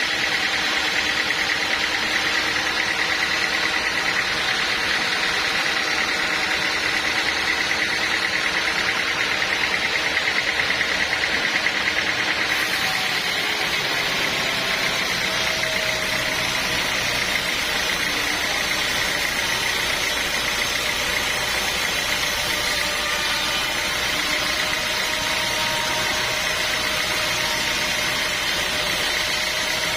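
Sawmill machinery running steadily with a constant whine, its sound shifting about twelve seconds in.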